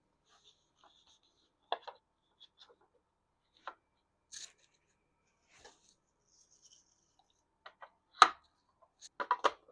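Hair dryer attachments being handled and set onto a wooden shelf for a trial fit: scattered light clicks and taps, a sharper knock about eight seconds in, and a quick run of clattering taps near the end.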